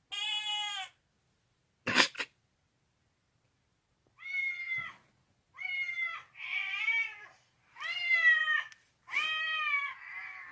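A cat meowing: one meow, then a run of about six more, some rougher than others. A sharp click comes about two seconds in.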